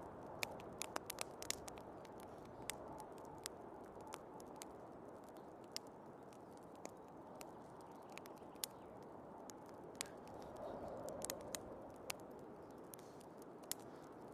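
Wood fire crackling, with irregular sharp pops and snaps, a few louder than the rest, over a steady rushing of storm wind.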